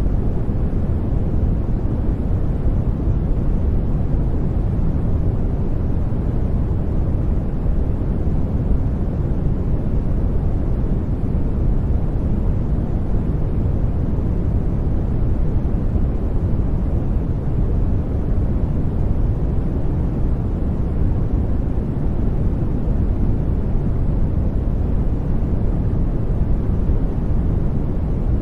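Steady brown noise: an even, deep rushing hiss, strongest in the bass and falling away toward the treble, unchanging throughout.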